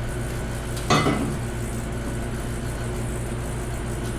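A single sharp knock about a second in, like a tool or engine part being set down or dropped, over a steady low background hum.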